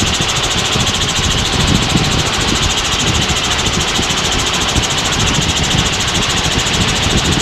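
Helicopter engine and rotor noise heard from inside the cabin in steady cruising flight, a loud, even drone with a fast fine pulsing.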